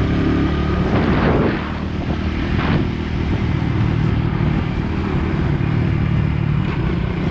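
Motorbike engine running steadily while riding, with wind and road noise over it. There is a brief louder rush about a second in, and a shorter one a little later.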